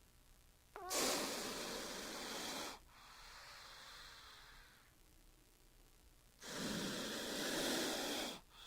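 King cobra hissing: two long hisses of about two seconds each, the first about a second in, the second about six and a half seconds in.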